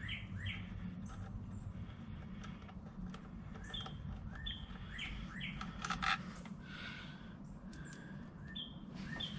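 Small birds chirping over and over in short quick chirps, with a single sharp click about two-thirds of the way through.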